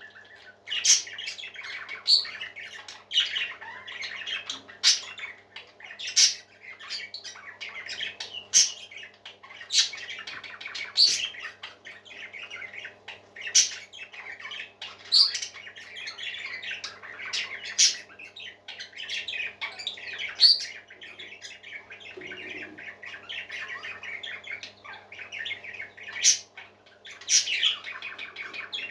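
A flock of pet parakeets chattering and warbling without a break. Sharp, loud squawking calls stand out above the chatter about every second or so.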